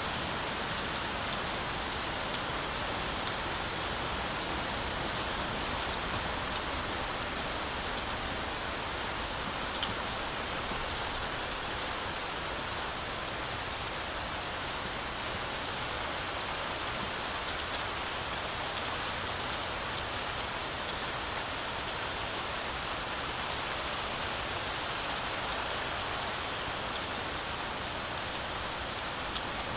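Heavy rain falling steadily through forest trees, a dense even hiss of drops striking leaves, with one sharper drop tick about ten seconds in.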